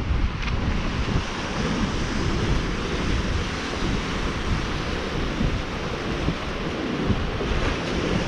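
Wind buffeting the microphone in irregular low gusts over a steady rush of surf.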